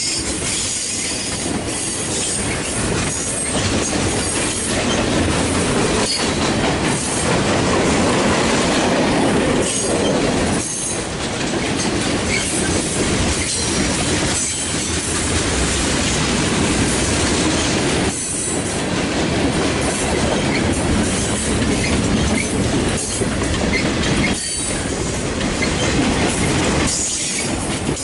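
Freight cars, boxcars and covered hoppers, rolling past on a long freight train. Steady wheel-on-rail noise with clickety-clack as the trucks cross rail joints, and faint high wheel squeal.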